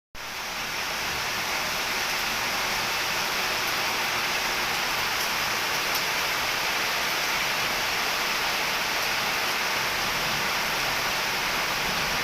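Heavy rain falling steadily: an even, unbroken hiss of downpour with a few faint drop ticks.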